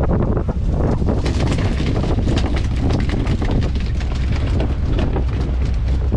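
A bottom trawler's engine running steadily at sea, with wind buffeting the microphone and irregular sharp crackles over the low rumble.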